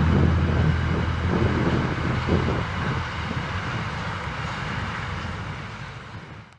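Train rumbling past on the Trans Australian Railway, a steady low rumble that fades away.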